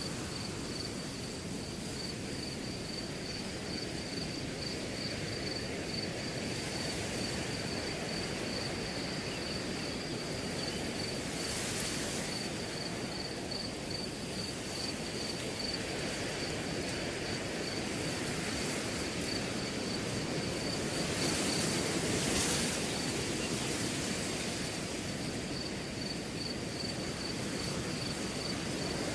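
Wind blowing through a grass field: a steady rushing with two stronger gusts of rustling, one near the middle and one about three quarters through. Under it a cricket's continuous pulsing, high-pitched trill drops out for a few seconds during the second gust, then resumes.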